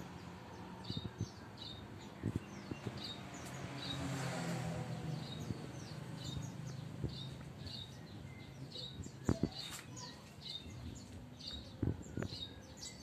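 Small bird chirping over and over in short high calls, with a faint low hum beneath and a few sharp clicks near the end.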